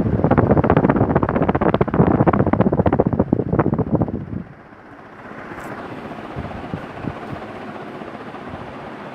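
CEC Deluxe 56-inch ceiling fan running fast, its downdraft buffeting the microphone in loud, gusty rushes. About four seconds in the level drops suddenly to a quieter, steady rush of moving air with a few faint ticks.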